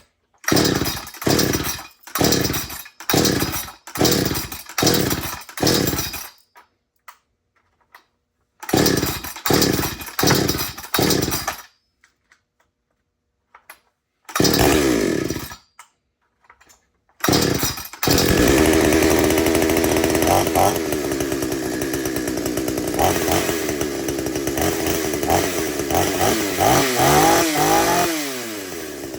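Two-stroke chainsaw being pull-started. A string of short pulls comes first, then a pause and a few more, before the engine catches about eighteen seconds in and runs steadily. Near the end the throttle is blipped a couple of times, then the revs fall away.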